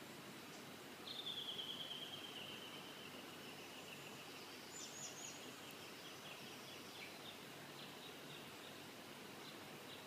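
A songbird singing: a long rapid trill that slides down in pitch begins about a second in, followed by a few short higher notes and a run of brief chirps, over faint steady background hiss.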